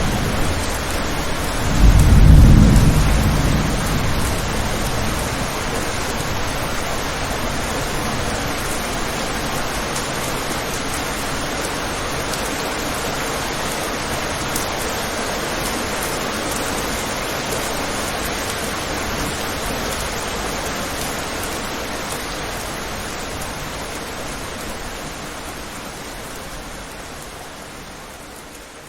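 Steady rain falling, with a low roll of thunder about two seconds in that dies away over the next couple of seconds. The rain fades out near the end.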